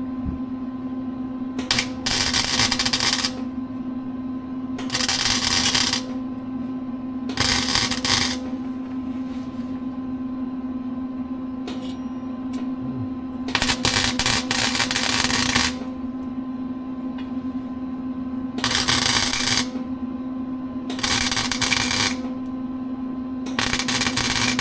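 Welder tack-welding a crack in a car's exhaust pipe: about seven separate bursts of loud crackling, each one to two seconds long, over the welding machine's steady hum.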